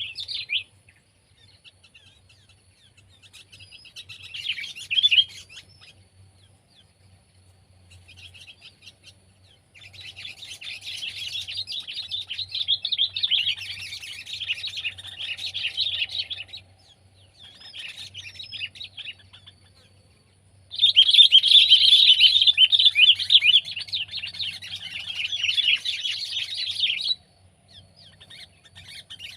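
Sooty-headed bulbul calling in several bursts of rapid chattering notes separated by short pauses. The longest and loudest burst comes past the middle and stops abruptly.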